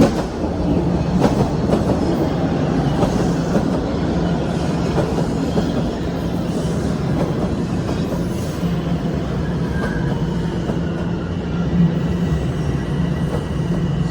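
TTC Line 1 Toronto Rocket subway train running past at close range, its motors giving a steady hum while the wheels clack over rail joints.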